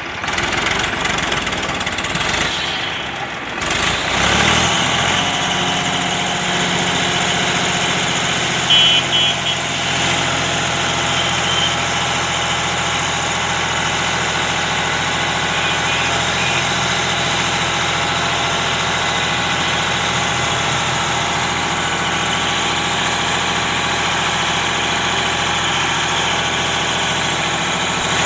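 Powertrac Euro 55 tractor's diesel engine running; about four seconds in its note shifts and then holds steady to the end.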